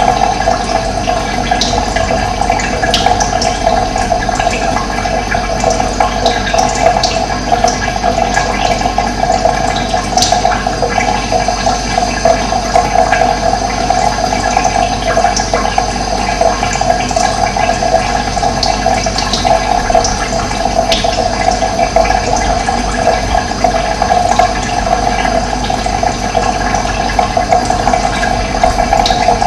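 Steady rush of running water, with brief, faint bird chirps scattered over it.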